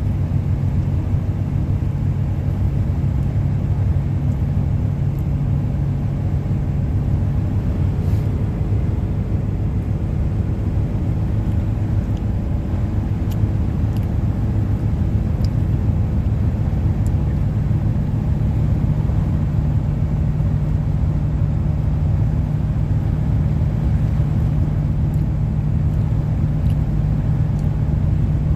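Steady low rumble of a car's engine and tyres heard from inside the cabin while driving, with a few faint ticks in the middle.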